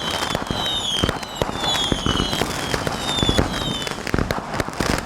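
Sunwing Pop'N Crackle 500-gram consumer firework cake firing crackle shots: a dense, continuous crackling of many sharp pops with louder reports mixed in, over short falling whistles that repeat about twice a second.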